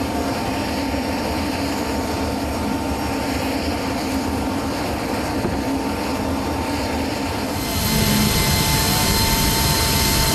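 Jet aircraft engine running steadily, a constant whine over a rushing hum, growing louder and hissier about eight seconds in.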